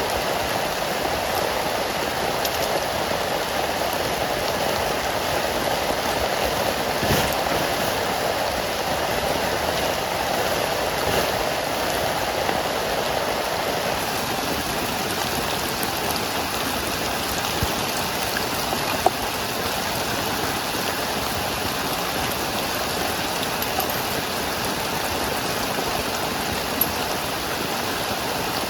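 Heavy rain falling steadily, a continuous hiss of drops, with a few sharper drop hits standing out now and then.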